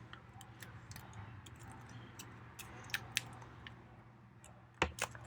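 Folded paper being handled and pressed together: faint scattered clicks and light rustles, two sharper ticks about three seconds in, and a louder knock near the end. A steady low hum runs underneath.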